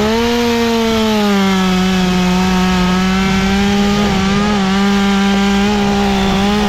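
Chainsaw held at full throttle while cutting wood: one steady engine note that sags a little in pitch about a second in as the chain bites, then holds level through the cut.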